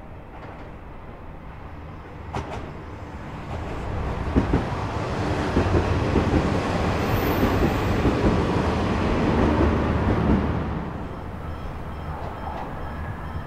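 Yufuin no Mori diesel limited express train passing close by. Its engine hum and running noise build up, are loudest for about seven seconds in the middle, then drop away. Wheels clack over the rail joints as it goes by.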